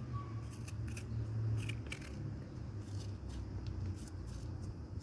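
Knife slicing peppers: a dozen irregular sharp cutting clicks, over a steady low rumble.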